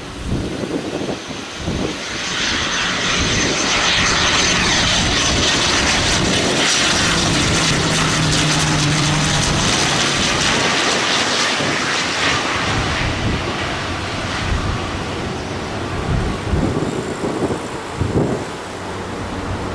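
Aircraft engines passing close by. A loud rush with a thin high whine builds about two seconds in, holds, then fades after about twelve seconds. Gusts of wind buffet the microphone near the start and again near the end.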